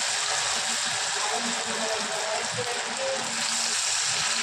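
Marinated fish pieces deep-frying in hot oil: a steady, dense sizzle.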